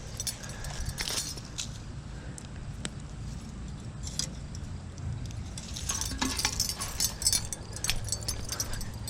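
Light clinking and jingling of small hard objects being handled, scattered through and coming thicker about halfway in, over a steady low rumble.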